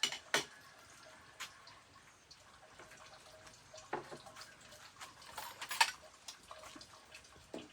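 Water dripping and splashing, with a few scattered sharp clicks and knocks.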